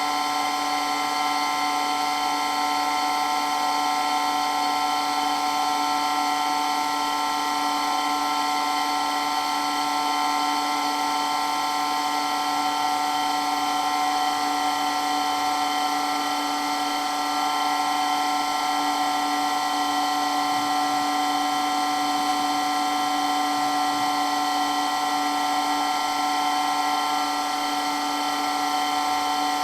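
Electric water pump running very loudly and steadily, with a high, unchanging whine made of several tones.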